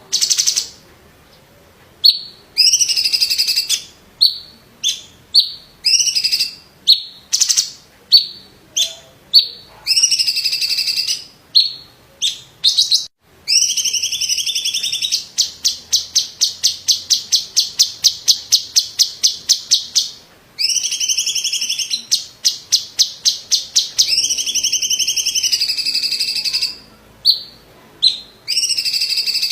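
Cucak cungkok (blue-winged leafbird) singing loudly: a varied string of short, sharp whistled phrases and calls. In the middle comes a long, rapid rattling trill of about six notes a second.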